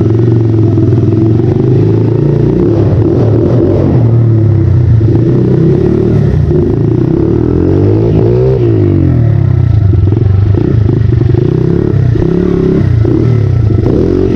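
Honda XR80 pit bike's small four-stroke single-cylinder engine running as it is ridden, the revs rising and falling, with a quick rev up and back down about eight seconds in.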